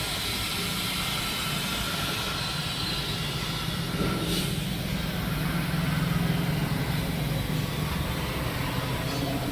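Motor vehicle engine and road noise running steadily, swelling from about four seconds in to near seven seconds as a vehicle passes close.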